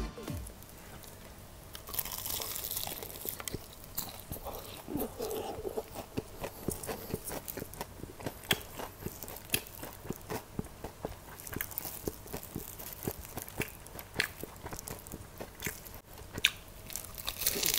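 Close-miked eating of crispy fried chicken. A crunchy bite through the battered crust comes about two seconds in, then chewing with dense, irregular crisp crunches, several a second. Another loud bite comes near the end.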